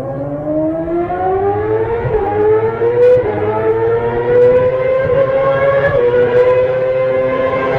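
A siren-like wail that rises in pitch over about four seconds, then holds a steady tone.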